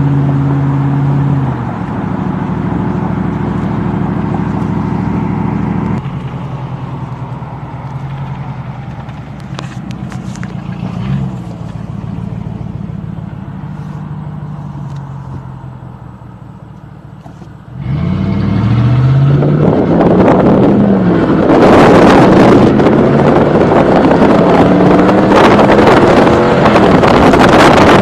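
5.7 L Hemi V8 of a 2017 Ram 1500 with the muffler and tailpipes removed, running while driving. The engine note falls and settles into a steady drone, then about two-thirds of the way through it jumps into a hard acceleration, rising in pitch and getting much louder and rougher, with deep bass from the open exhaust.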